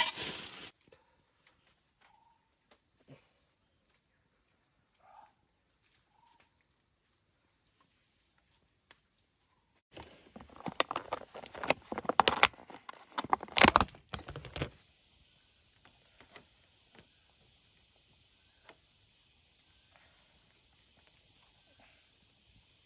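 An insect's steady high-pitched drone over a faint hiss, broken about ten seconds in by some five seconds of loud rustling and clattering close by.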